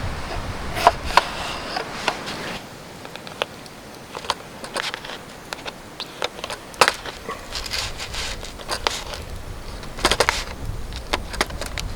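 Wood campfire crackling with irregular sharp pops, the loudest about seven seconds in and a quick cluster about ten seconds in. Low wind rumble on the microphone for the first couple of seconds and again near the end.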